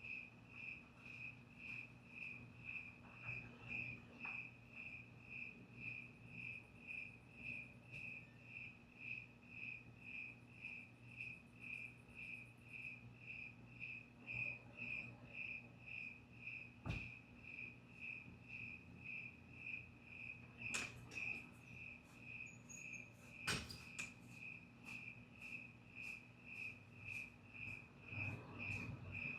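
A cricket chirping steadily at night, about two evenly spaced chirps a second, over a faint low hum. A couple of sharp clicks stand out about halfway through and a few seconds later.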